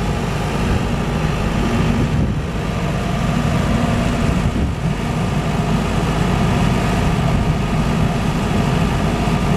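Silenced 50 kVA diesel generator running at a steady, even pitch with a low engine drone.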